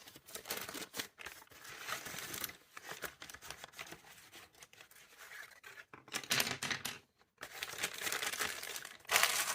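Packaging being handled and opened: papery or plastic crinkling and tearing in several stretches, with small clicks of handling between them.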